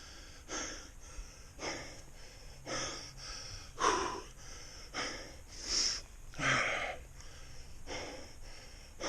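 A man breathing hard, a heavy breath about every second.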